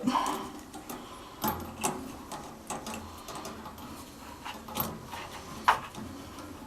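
Scattered light clicks and knocks of parts being handled while a water heater's pilot assembly is refitted, with a sharper knock near the end.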